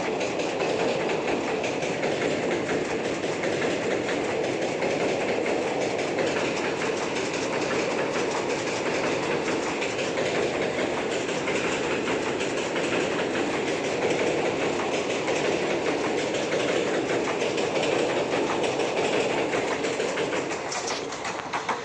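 Local passenger train running steadily, with the continuous rumble and clickety-clack of its wheels on the rails.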